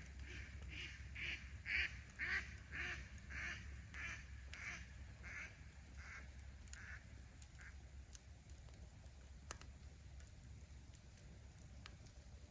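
A duck quacking in a run of about a dozen evenly spaced quacks, roughly two a second, loudest a couple of seconds in and then fading away. Faint, with a few sharp campfire crackles afterwards.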